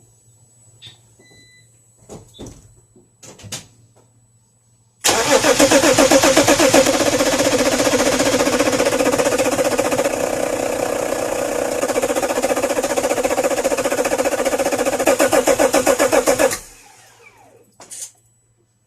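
BMW M57 3.0-litre diesel being cranked over on its starter for its first start after a rebuild, with an even, rhythmic chug for about eleven seconds that does not catch and stops suddenly when the starter is released. A few light clicks come before it.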